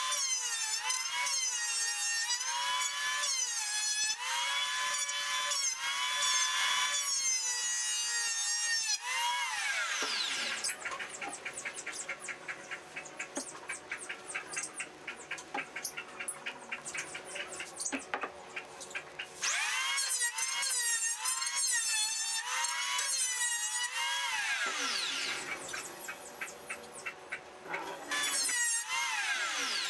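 Electric hand planer running with a high-pitched whine that wavers in pitch as it passes along a wooden board. The whine falls away after about ten seconds, followed by light clicking and rubbing. The planer runs again twice more, and each run ends in a falling whine as the motor winds down.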